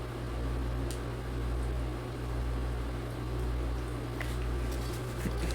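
Steady low hum of room tone, with a few faint clicks near the end as small parts are handled on the bench.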